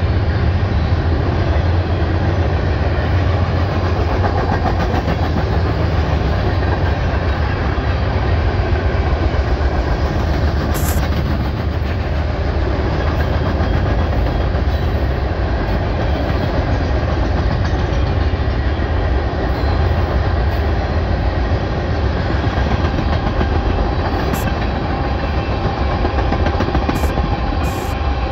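CSX freight train rolling past, a steady loud rumble with the rapid clicking of its car wheels over the rail joints.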